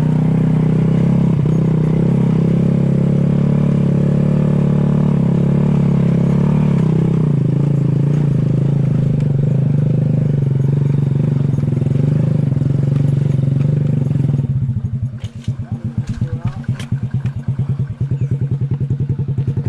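Small motor scooter engine running under load as it climbs a muddy track. About three-quarters of the way through it drops to a rapid, even putter at idle, with a few clicks.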